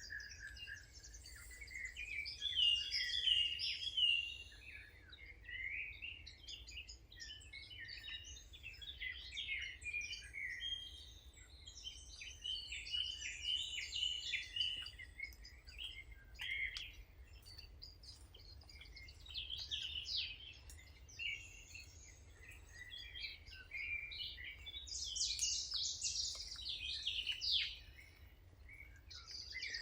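Songbirds chirping and trilling in quick overlapping phrases, with a faint steady low rumble underneath.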